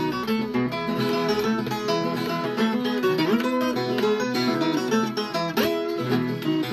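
Viola caipira, the Brazilian ten-string folk guitar, playing a plucked instrumental passage of quick note runs with a couple of sliding notes.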